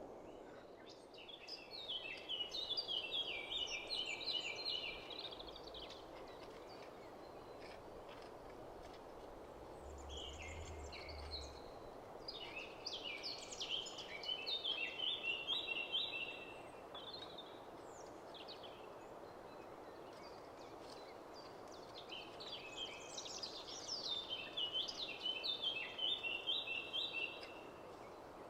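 A songbird singing the same phrase three times, each a run of quick high notes stepping down in pitch and lasting about four seconds, over a steady background hiss.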